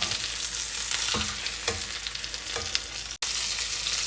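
Breaded chicken fried steaks frying in hot oil and butter in a skillet, a steady sizzle with a few light clicks. The sound cuts out for an instant about three seconds in.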